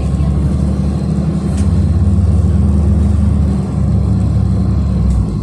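City bus engine running as the bus drives along, a steady low hum heard from inside the passenger cabin; the deepest part of the hum drops away about three and a half seconds in.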